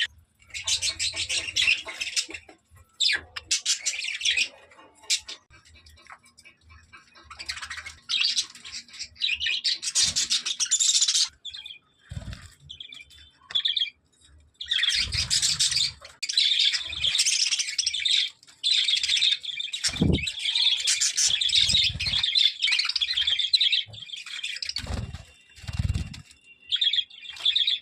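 Parrots chattering in repeated bouts of a few seconds each, with several dull thumps in between.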